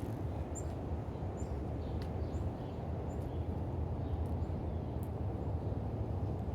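Faint, short, high chirps of small birds, most of them in the first half, over a steady low rumble.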